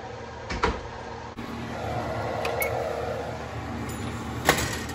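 Steady hum of a running kitchen appliance, which comes in about a second and a half in. There is a faint click before it and a sharp click near the end.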